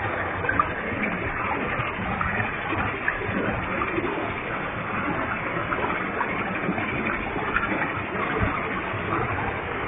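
Waterfall with a heavy flow, water crashing down and splashing in a steady, unbroken rush.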